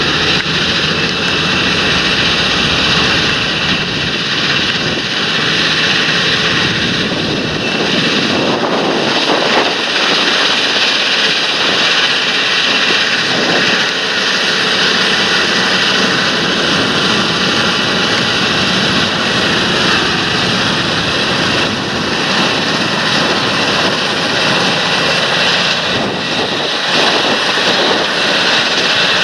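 John Deere tractor's engine running steadily under load during field work, with a steady high whine over the engine noise.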